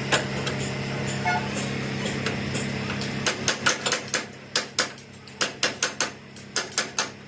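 A quick, irregular run of sharp knocks on metal, like hammer blows, several a second, starting about three seconds in. Under the first part a steady engine hum, which fades as the knocking starts.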